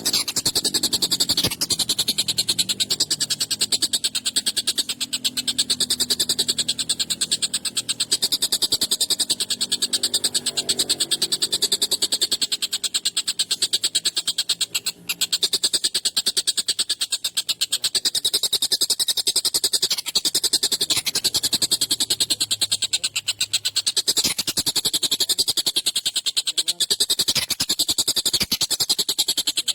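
Tengkek buto kingfisher calling nonstop in fast, harsh, repeated notes, with a brief break about halfway.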